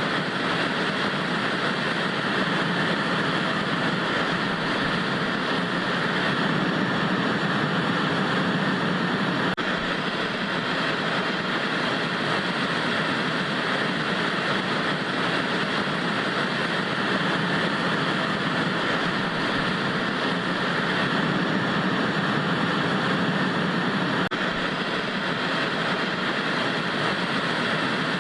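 Steady hiss of analog TV static, an even white-noise rush that holds constant throughout.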